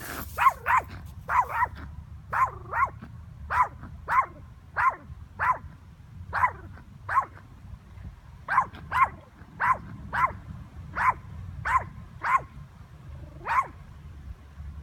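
Yorkshire terrier barking repeatedly: short, high-pitched yaps, often in quick pairs, kept up at a steady pace.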